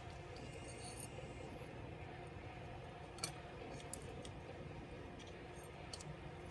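A few small, sharp clicks of tools and plastic or metal laptop parts being handled during disassembly, the two loudest a little over three and about four seconds in, over a low steady hum.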